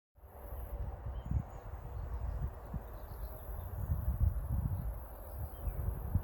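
Outdoor ambience dominated by wind buffeting the microphone, a low rumble with irregular gusts, over faint scattered high chirps.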